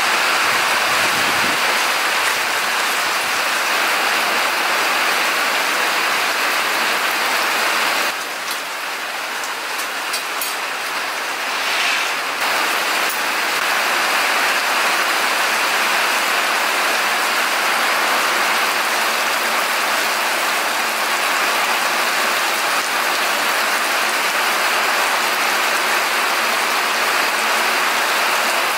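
Steady rain falling, an even hiss that eases slightly for a few seconds about eight seconds in.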